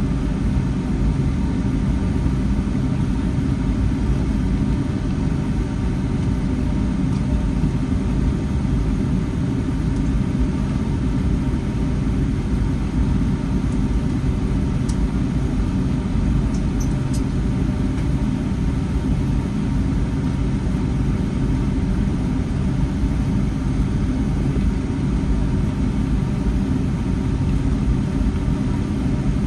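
Steady low rumble of a Boeing 757-300's engines and air noise heard inside the passenger cabin, holding level without any rise in power. A few faint clicks come partway through.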